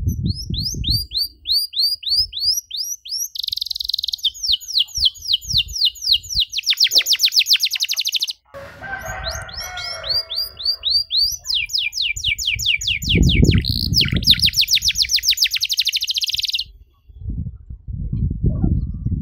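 Domestic canary singing long, rapid rolling trills of quickly repeated high notes. The song breaks once, a little before halfway, for a short scratchy chatter, then the trills resume. Low rumbling noise comes and goes underneath.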